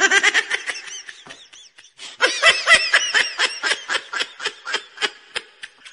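High-pitched human laughter: a rapid giggle of about seven short bursts a second. It comes in two bouts, the second starting about two seconds in and louder, and each trails off.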